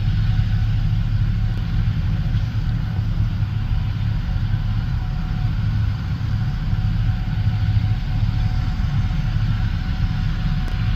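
Heavy farm harvest machinery running steadily: a constant low diesel engine drone with a faint steady whine over it.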